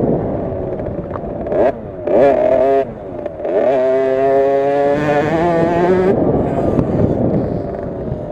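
Small two-stroke 50cc minibike engine revving up and down with the throttle: it climbs twice in the first few seconds, holds high for about two seconds, then drops off about six seconds in.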